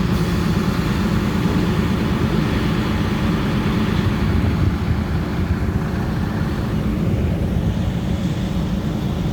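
Diesel train running along the line: a steady low engine drone over an even rumble of wheels and track, with no change in pace.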